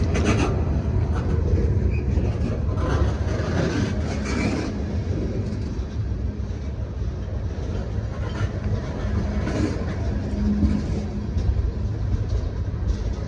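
Freight train cars rolling slowly past: a steady low rumble of wheels on rail, with brief sharper rattles now and then.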